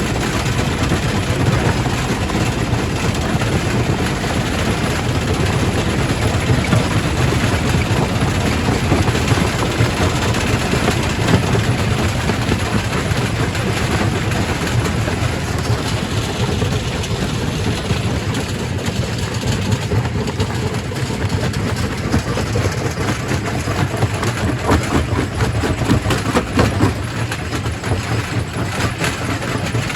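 Primary rock crusher running, a steady heavy mechanical rumble with a dense, continuous clatter of knocks as rock is broken.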